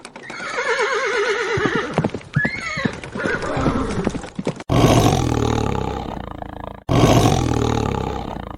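A horse whinnying: one long, wavering call that falls in pitch. It is followed by two separate deep animal roars, each starting and stopping abruptly.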